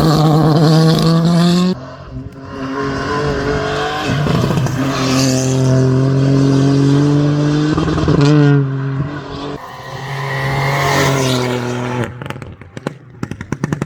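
Race car engine running hard at high revs, dropping off and picking up again several times as the driver lifts and goes back on the throttle, then a quick run of sharp pops and crackles near the end.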